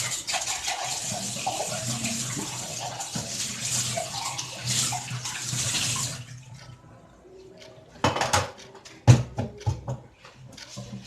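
Kitchen tap running water into a sink while things are rinsed, shut off about six seconds in; a few sharp knocks and clatters follow.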